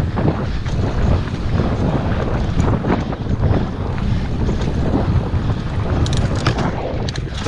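Wind buffeting the microphone over the rumble of mountain-bike tyres on a dirt trail, with frequent rattles and knocks from the bike. A few sharp clicks come about six to seven seconds in.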